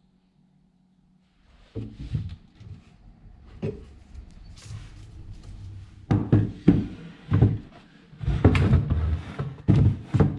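Irregular wooden knocks and thuds, starting about a second and a half in, some coming in quick clusters, as of chair parts being handled and knocked together.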